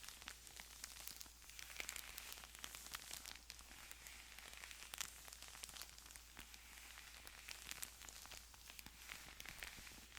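Thin Bible pages rustling and crinkling under the fingers, close to the microphone: a faint, continuous patter of tiny paper crackles.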